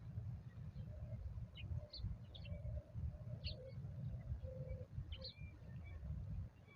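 Wild birds calling: several short high chirps and a few lower, held notes in the middle, over a steady low rumble.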